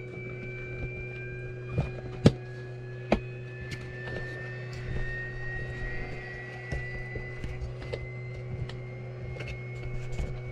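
Helicopter cockpit with electrical systems powered before engine start: a steady low hum, two faint high whines slowly rising in pitch, and scattered sharp clicks.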